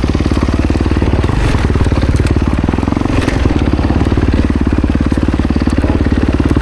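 Kawasaki KX250X dirt bike's single-cylinder four-stroke engine running steadily, its firing pulses even throughout with no sharp revving.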